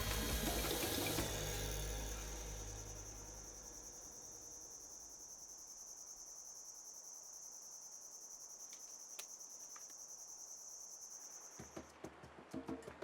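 Insects calling in a steady, unbroken high-pitched trill. Background music fades out over the first couple of seconds, and music comes back in near the end.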